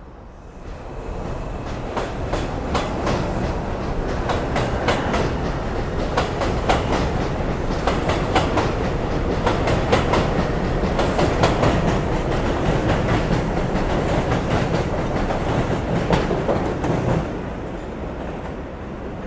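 R142-series subway train running past on the track, its wheels clicking rapidly over rail joints. The sound builds about a second in and drops off sharply near the end as the train clears.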